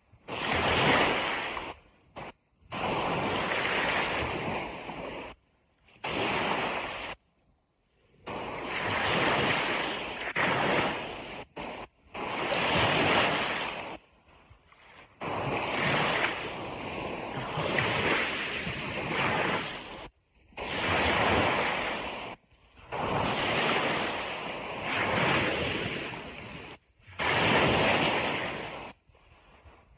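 Ocean waves washing onto a beach: surf noise swells and fades in surges every few seconds, with the sound cutting out abruptly to near silence several times between them.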